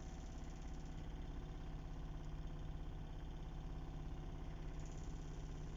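An engine idling steadily, a low even hum with a fast regular pulse.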